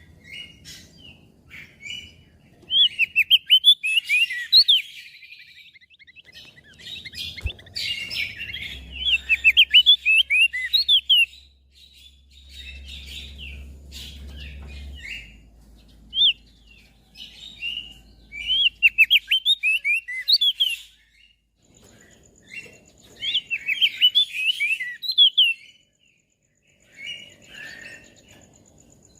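Crested white-eye (opior jambul) singing: bursts of fast, high twittering phrases a few seconds long, separated by short pauses.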